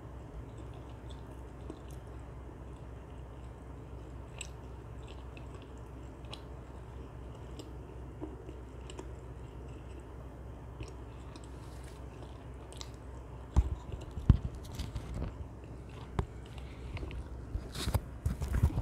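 Close-miked chewing and biting of sticky, glazed dakgangjeong (Korean sweet fried chicken): soft scattered mouth clicks over a steady low hum, then louder knocks and rustles in the last five seconds.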